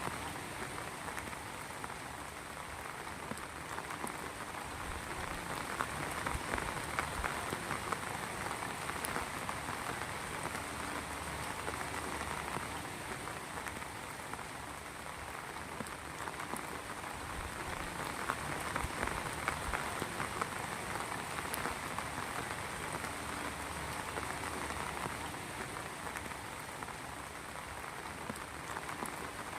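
Heavy rain falling steadily, a dense patter of many small drops on a surface, swelling slightly now and then.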